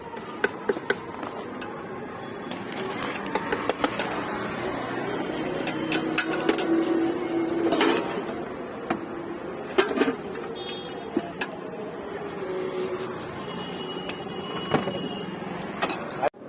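Roadside background noise with scattered sharp clicks and knocks, and a few brief faint tones.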